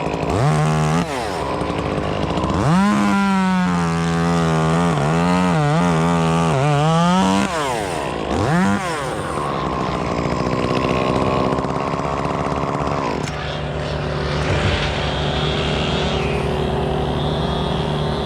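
Chainsaw engine revving: a couple of short blips, then held high and wavering for about five seconds, another blip, then a steadier, lower running note.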